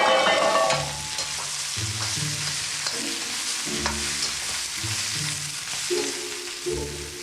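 Steady sizzling hiss of food frying, starting suddenly, under soft background music with low notes about once a second.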